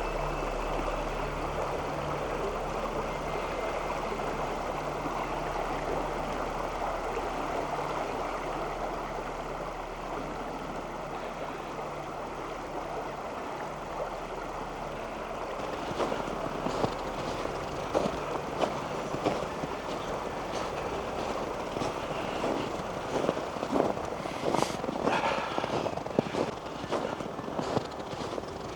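Steady rushing of a flowing creek. From about halfway through, a person's footsteps on the trail come in as irregular short steps, growing louder and more frequent near the end.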